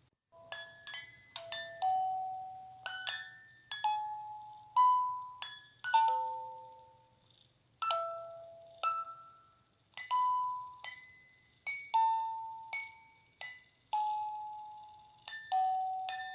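A slow lullaby melody of single bell-like chime notes, like a glockenspiel or music box. Each note is struck and rings out before the next, starting a moment after silence.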